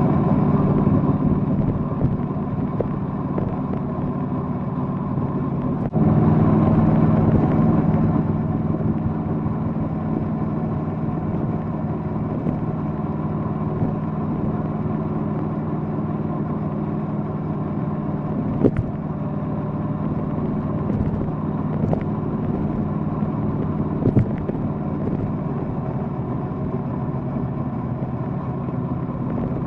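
Triumph Bonneville Bobber's parallel-twin engine running steadily under way, louder as it pulls harder near the start and again about six seconds in. A few short sharp knocks come through around two-thirds of the way in.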